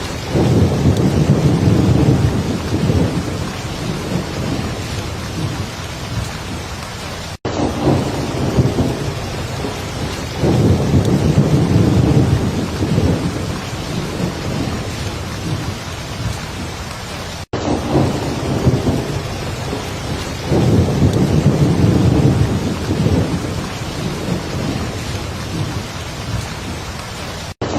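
Heavy rain falling steadily, with low rumbles of thunder swelling up about every ten seconds, three times. The sound cuts out for an instant twice, in the pauses between rumbles.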